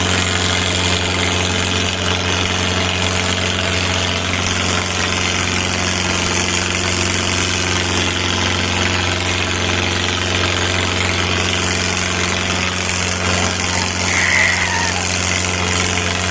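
Diesel tractor engine running steadily at an even pitch. A brief higher-pitched sound cuts in about fourteen seconds in.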